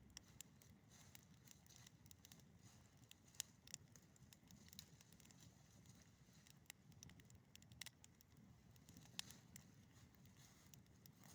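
Campfire burning quietly, with scattered sharp crackles and pops from the burning wood.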